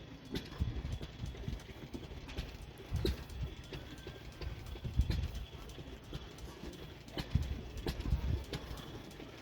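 Footsteps of someone walking while filming, with irregular low bumps and rumble on the microphone.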